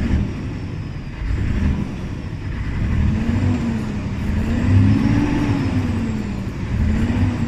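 Scania R-series diesel truck engine being revved up and down a few times, and the revving is not smooth. The unevenness comes from a faulty second-cylinder fuel injector, with low compression in that cylinder.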